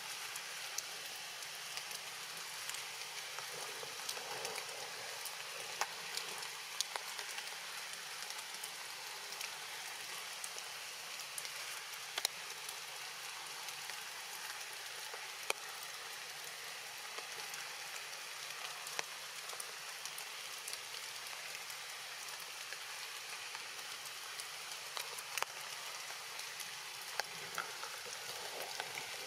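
Steady rain falling on forest leaves: a constant hiss with scattered sharp ticks of single drops.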